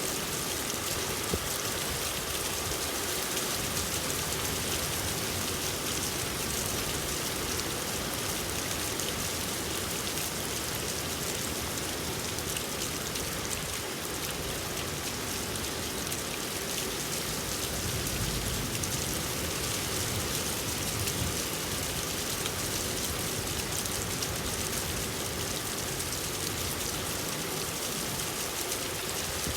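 Steady rain falling and pattering on surfaces, an even hiss of drops with a slight low rumble swelling in about two-thirds of the way through.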